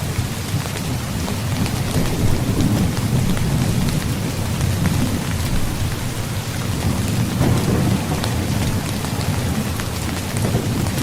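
Steady heavy rain with a continuous low rumble of thunder underneath, swelling a little a couple of seconds in and again past the middle.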